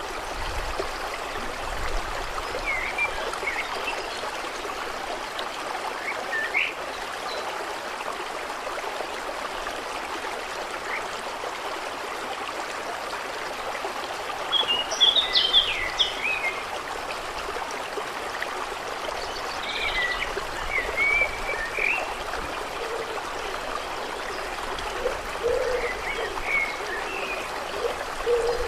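Steady running, trickling water with birds chirping on and off over it, the loudest burst of chirps about halfway through. A few short, low calls near the end, frog-like.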